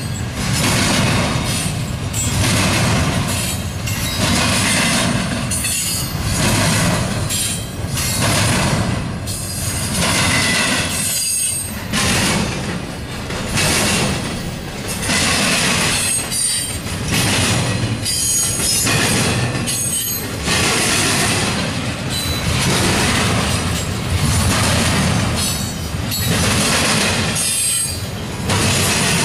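Double-stack intermodal container train rolling past: steel wheels rumbling and clattering on the rails, the loudness rising and falling every couple of seconds as the cars go by. Brief high-pitched wheel squeals come now and then.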